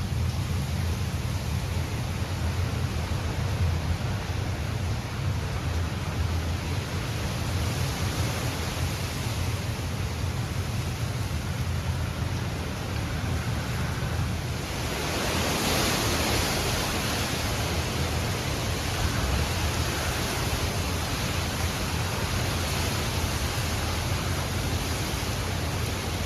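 Hurricane wind and rain: a steady rushing with heavy wind rumble on the microphone. A stronger gust swells about fifteen seconds in.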